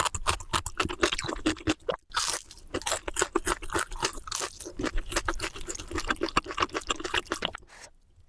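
Close-up crunching and chewing of panipuri, the crisp hollow puris cracking in rapid crackles, with a brief break about two seconds in; it stops near the end.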